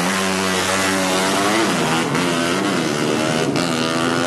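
200cc motorcycle engines revving, their pitch rising and falling repeatedly, with more than one engine sounding at once.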